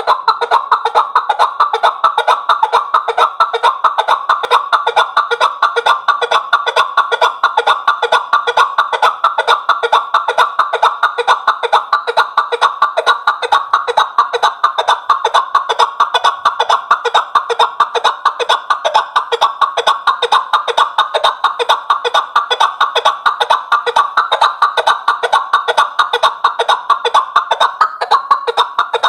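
Chukar partridge calling: a rapid, unbroken run of short clucking notes, loud and unchanging throughout.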